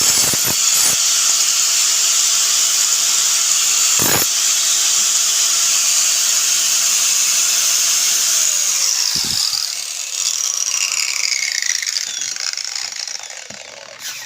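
Small electric grinder grinding rust off the metal parts of a gas stove's ignition assembly, with a steady motor whine and harsh hiss. About eight and a half seconds in the motor is switched off and spins down, its pitch falling as it fades out near the end.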